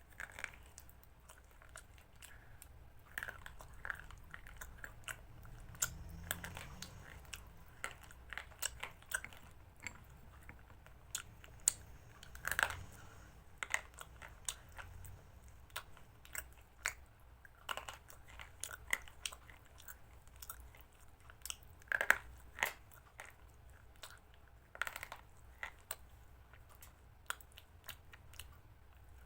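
A person chewing and crunching mouthfuls of chicken salad, with irregular sharp crunches and clicks between quieter chewing.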